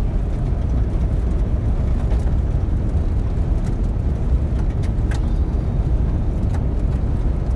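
Strong wind buffeting the microphone in a snow storm: a steady, loud, low rumble, with a few faint clicks.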